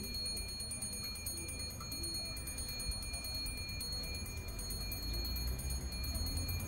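Electric locomotive-hauled passenger train approaching from a distance: a low rumble that grows louder over the last couple of seconds, with a faint steady high-pitched whine above it.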